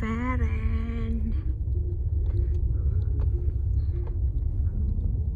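Steady low rumble of a car's road and engine noise heard from inside the cabin, with a spoken word in the first second.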